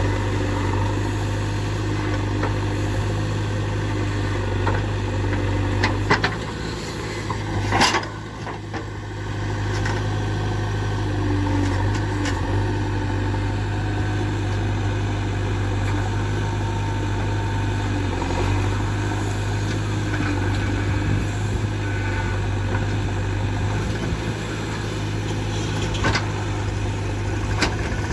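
JCB 3DX backhoe loader's diesel engine running steadily, with a few short sharp knocks about six and eight seconds in.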